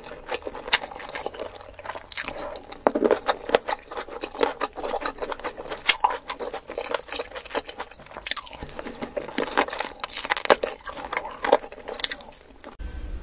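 Close-miked chewing and biting: a person eating spicy chicken leg curry and rice by hand, a dense run of quick wet clicks and crunches from the mouth. It cuts off abruptly just before the end.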